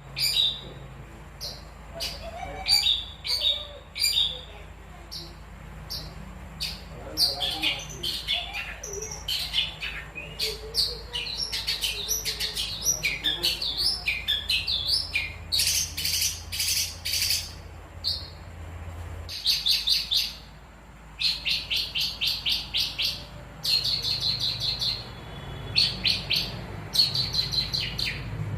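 Long-tailed shrike (pentet) singing: loud runs of sharp chirps, each run a quick series of rapidly repeated notes, with short pauses between runs.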